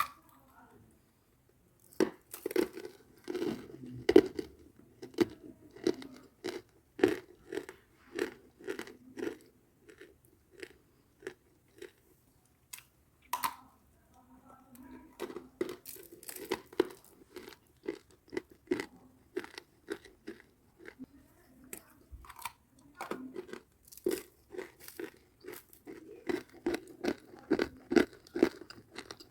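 Crunchy biting and chewing of dry red clay chunks, crisp like chips: runs of sharp crunches broken by two short pauses.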